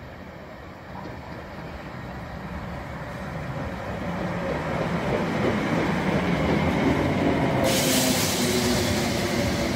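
Class 320 electric multiple unit approaching and drawing into the platform, its running and wheels on the rails growing steadily louder as it nears. A hiss starts suddenly about eight seconds in as the train comes alongside.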